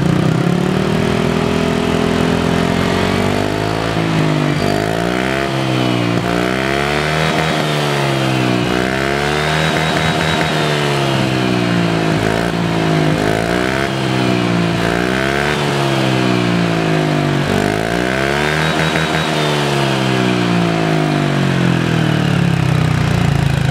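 Honda ADV150's single-cylinder four-stroke engine, fitted with a Prospeed full-system aftermarket exhaust, rising from idle and then revved again and again, its pitch climbing and falling every couple of seconds.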